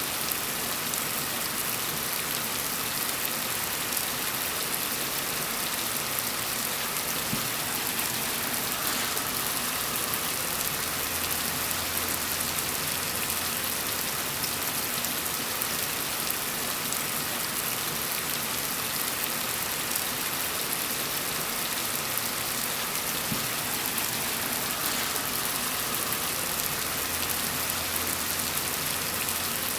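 Steady gentle rain falling on a surface, a constant hiss with fine scattered drop patter.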